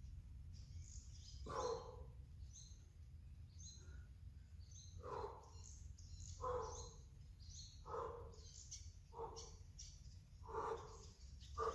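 Birds calling: a short call repeated about every one and a half seconds, with small birds chirping high over it.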